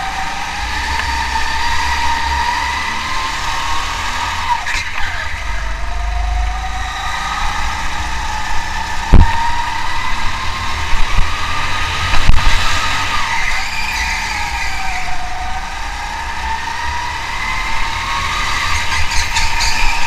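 Engine of a motorsport vehicle running hard, its pitch rising and falling smoothly as the revs change, over a steady low rumble. Two sharp thumps stand out, about nine and twelve seconds in.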